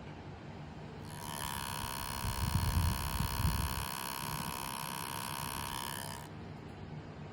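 Nintendo Switch's small cooling fan running with a steady high whine, starting about a second in and stopping about six seconds in, with some low handling rumble partway through.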